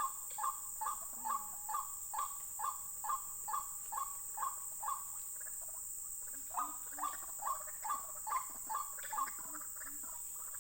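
White-breasted waterhen (ruak-ruak) calling in a long run of repeated harsh notes, about two or three a second. The run breaks off about halfway through and then starts again.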